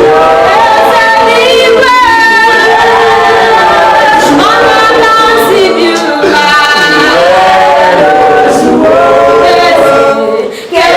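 A choir of several voices singing together, without clear instrumental backing, with a brief dip in loudness near the end.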